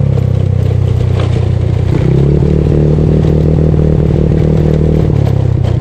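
Bored-up Yamaha Mio scooter's single-cylinder engine running steadily while riding, its pitch shifting slightly about two seconds in.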